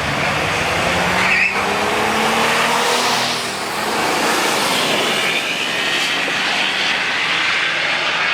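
Diesel drag-racing truck running at full throttle down the strip. The engine note rises in pitch in the first couple of seconds, then a high whine sits over the engine noise.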